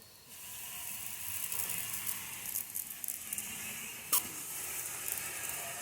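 Water spraying from a pressure washer wand at plain house pressure, pump off, onto a steel body panel, rinsing it after electrolysis rust removal: a steady hiss with a single sharp click about four seconds in.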